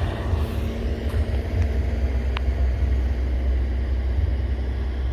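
Freight train rolling slowly past as it slows toward a stop: a steady low rumble, with one short sharp click a little over two seconds in.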